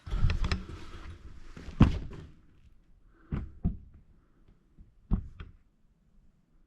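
Workshop handling noise: a rustling clatter, a loud thunk about two seconds in, then two pairs of sharper knocks, as parts and tools are handled during tractor disassembly.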